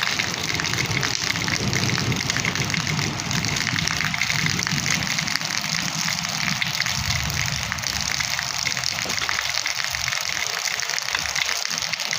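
Steady rain falling, an even hiss with a low rumble underneath through most of it.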